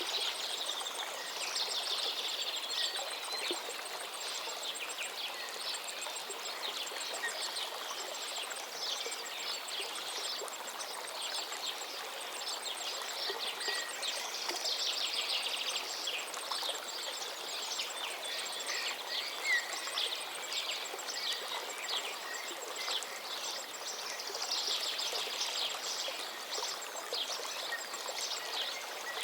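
River water flowing steadily, with birds singing over it; the birdsong swells in bursts near the start, about halfway through and near the end.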